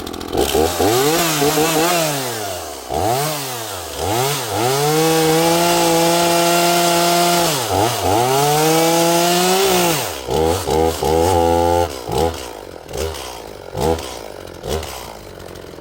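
A 45 cc two-stroke chainsaw is revved up and down several times. It is then held at high speed for a few seconds at a time, cutting oak, with the engine speed dropping between passes. Near the end it runs slower with several short blips of the throttle. The chain is not as sharp as the owner thought.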